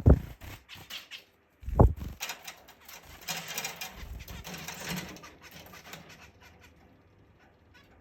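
Pet zebra finches squabbling: two sudden thumps, then a burst of fluttering and scuffling that dies away.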